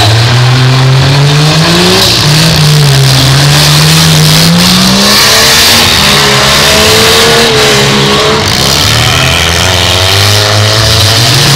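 Demolition-derby cars' engines revving loudly, their pitch repeatedly rising and falling as the cars accelerate and back off across the dirt arena.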